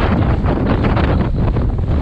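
High wind buffeting the microphone: a loud, steady rumble with quick gusty flickers, over choppy waves against the boat.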